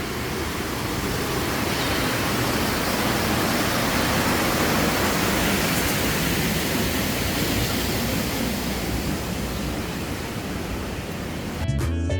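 Steady rushing noise from the open-sided safari ride truck moving along, with no distinct events. Music starts near the end.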